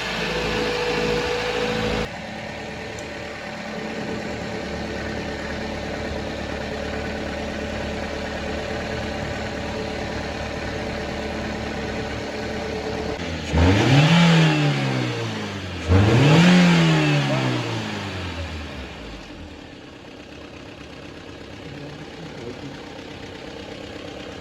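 Toyota Corolla XLi engine idling, revved twice in short blips a little over halfway through, the second about two seconds after the first, then settling back to a quieter idle.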